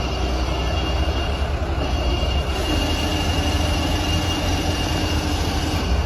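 Steady rolling rumble of a toy trailer truck's wheels as it is pushed along the ground.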